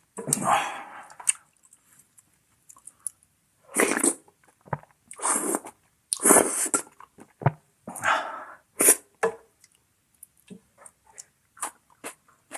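Close-miked eating sounds from one person: about six short, loud bursts of slurping and chewing, with small mouth clicks in between.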